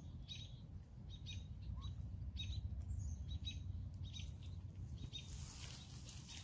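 Small birds chirping in short, high, repeated calls over a low steady rumble; a rustling noise comes in about five seconds in.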